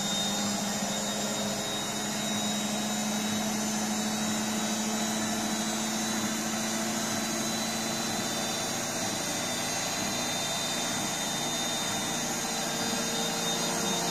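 Electrolux EWS 1076 front-loading washing machine in its spin cycle, the drum spinning at a steady high speed with a constant motor hum and high whine. Its drum bearings are freshly replaced and make no rumble.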